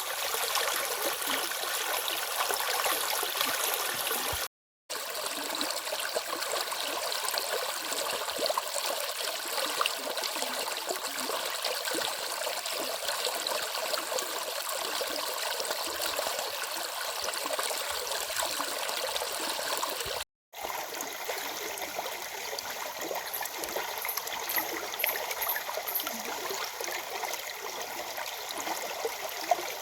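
A stream's water flowing steadily with an even rush. The sound cuts out completely for a split second twice.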